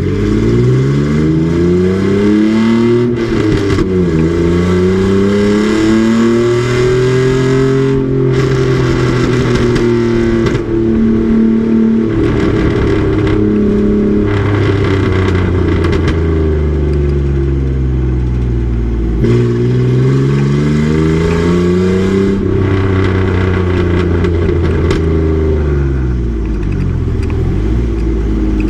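Race truck engine running hard on track. Its pitch climbs steeply with sharp drops at the gear changes, holds high, then falls away as it slows and climbs again before easing off near the end.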